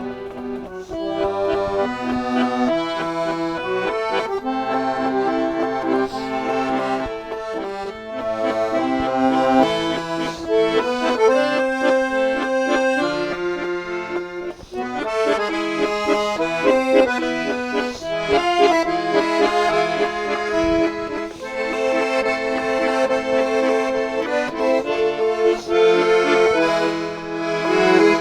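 Instrumental music: accordion playing a tune in held chords.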